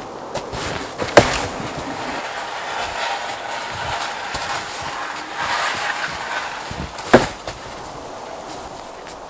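Two sharp wooden knocks about six seconds apart, with a rough scraping noise between them.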